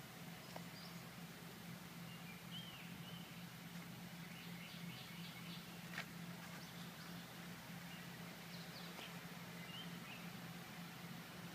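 Quiet outdoor background with birds chirping now and then over a faint steady low hum; a single sharp click about six seconds in.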